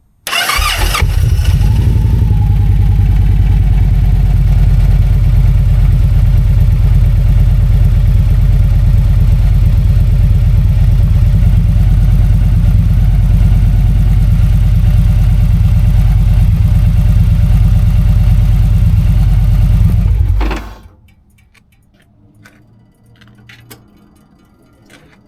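Victory Cross Roads motorcycle's V-twin engine started and left idling steadily for about twenty seconds, then switched off. This is its first run on fresh oil after an oil and filter change, to check for leaks.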